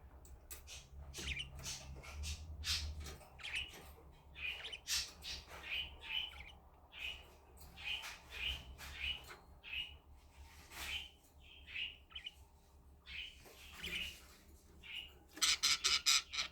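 Pet budgerigars chirping and squawking in short calls throughout, with a quick run of louder chirps near the end.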